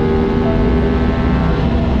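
Sport motorcycle engine pulling at steady high revs, its pitch easing down slightly, with wind rushing over the camera.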